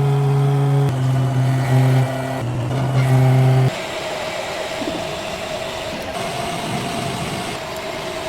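Metalworking machinery running: a steady low machine hum for the first few seconds, then, after an abrupt cut, a rougher, noisier running sound with a thin steady whine.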